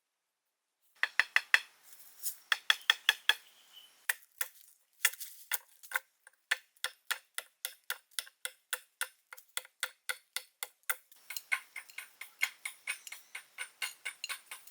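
A long run of sharp, evenly spaced taps or knocks, about four a second, starting about a second in and pausing briefly twice.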